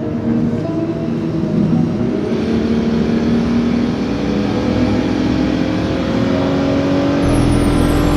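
Car engine accelerating, its note rising slowly and steadily over several seconds from about two seconds in, with a deeper drone joining near the end.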